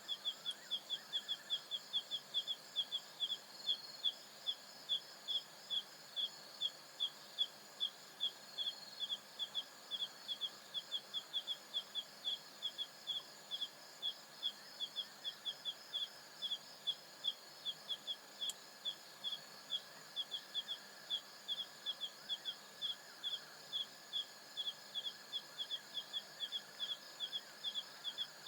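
African savanna night chorus: a short high chirp repeats steadily about three times a second, over the continuous trilling of other night insects at several pitches.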